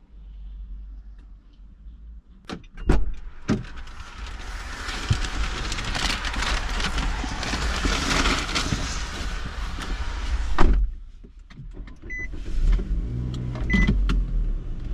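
Car sounds: a few sharp clicks, then a steady rushing hiss for about seven seconds that stops with a thump, followed by a few short, high beeps.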